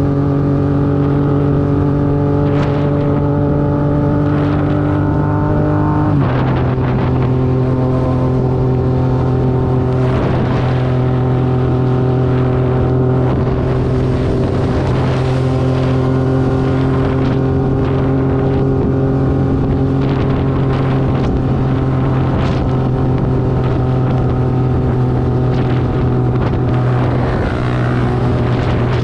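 Motorcycle engine running at a steady speed. Its pitch drops a step about six seconds in, as after an upshift, then holds steady again.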